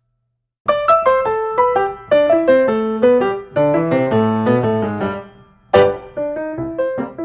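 Background piano music: a melody of struck notes begins after a moment of silence, pauses briefly past the middle, then starts a new phrase.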